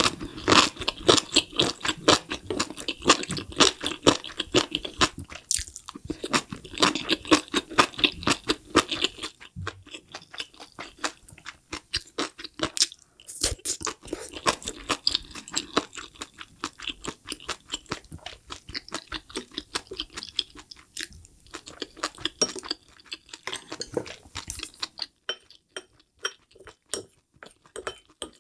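Close-miked chewing of a mouthful of spicy enoki mushrooms: rapid crisp, wet crunches, densest and loudest through the first ten seconds, then steadier and softer, thinning to scattered clicks near the end.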